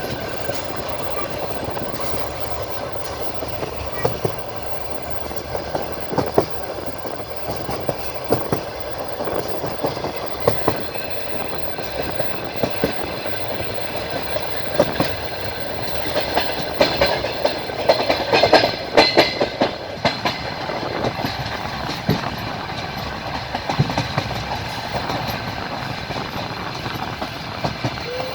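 Train wheels clacking over rail joints under a steady running rumble, heard from aboard a moving train. A quicker, louder run of clacks comes a little past the middle.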